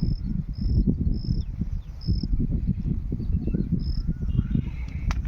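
An insect chirping in short, high-pitched, repeated chirps about every half second, fading out after two seconds with one more near the end, over a loud, uneven low rumble.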